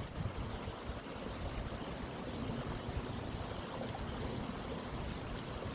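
Mountain stream water rushing and babbling steadily.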